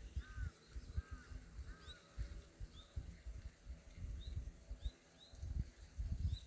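Birds calling: three arched, two-toned calls in the first two seconds, then short high chirps every second or so. Under them runs an uneven low rumbling.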